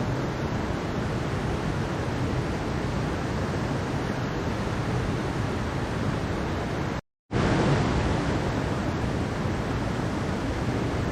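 Mountain stream water rushing in a steady, even wash. It cuts out completely for a split second about seven seconds in, then resumes.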